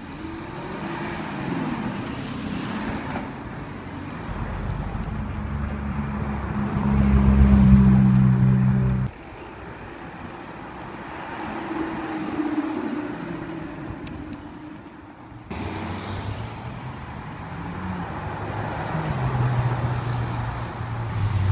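Supercar engines heard one after another as the cars drive slowly past, over street traffic noise. The loudest is a deep, steady engine note that swells and stops abruptly about nine seconds in. Near the end a Ferrari V8 swells as it passes.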